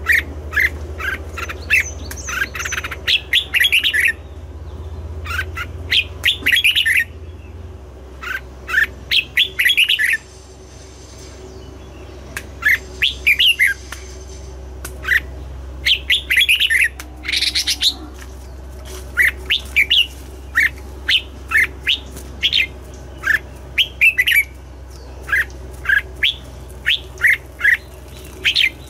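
Red-whiskered bulbul singing: phrase after phrase of quick, sharp whistled notes with short pauses between them, over a faint low steady hum.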